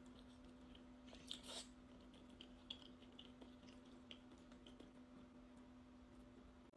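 Faint chewing, with soft mouth clicks and smacks while eating; a couple of slightly louder clicks come about a second and a half in. A low steady hum sits underneath.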